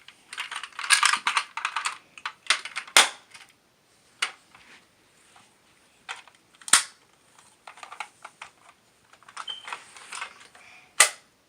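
Plastic toy pieces and toy coins clattering and clicking as they are handled on the toy recycle truck, with a rapid rattle in the first two seconds and three sharp knocks spread through the rest.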